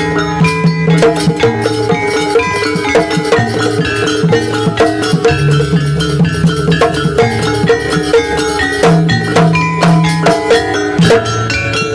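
Javanese gamelan-style jaranan accompaniment: tuned metal percussion struck in quick, ringing notes over drums and a steady low bass, playing without pause.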